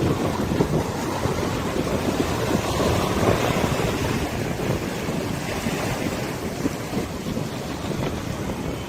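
Wind buffeting the microphone over river water, a steady low rumbling rush with water washing underneath.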